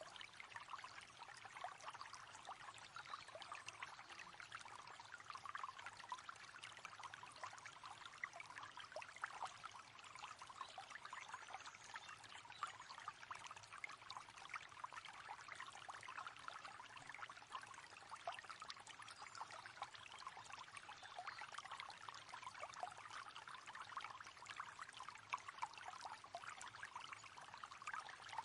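Faint, steady splashing and trickling of running water, continuous and unchanging.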